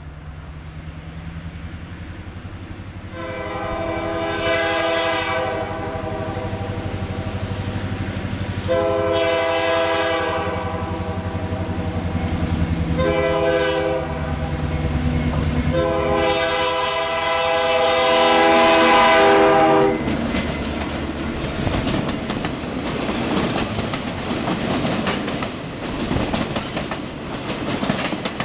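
EMD GP38-2 diesel locomotive sounding its air horn in the long-long-short-long grade-crossing signal over the rumble of its diesel engine as it approaches. After the last blast the train rolls past close by, its flatcar wheels clattering over the rail joints.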